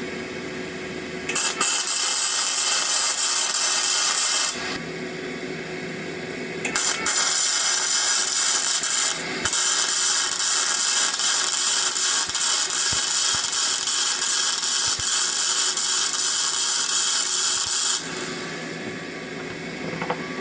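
Flux-core arc welding on steel with a Parkside PMSG 200 A1 welder at about 50 amps and 16.5 volts, electrode negative: the arc's crackling hiss in three runs, a bead of about three seconds starting a second in, a shorter one, then a long run of about eight seconds with a brief break near its start.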